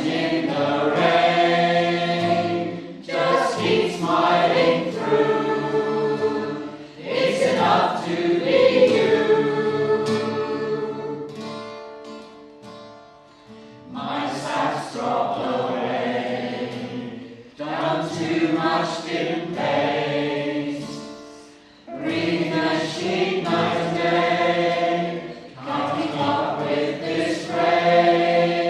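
A choir singing a slow song in phrases of a few seconds, with short breaks for breath between them.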